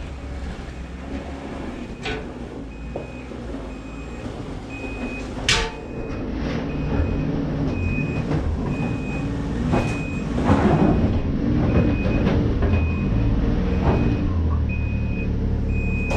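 A reversing alarm beeping steadily, a short high beep about once a second, over a running engine that gets louder partway through, with a few sharp knocks.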